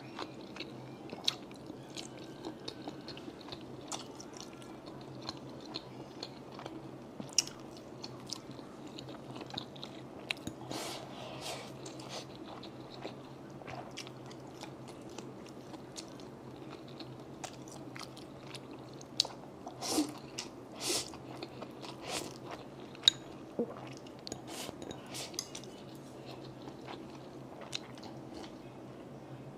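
Close-miked chewing and mouth sounds of someone eating egg fried rice, with many short clicks and soft smacks, a few louder bursts about two-thirds of the way through.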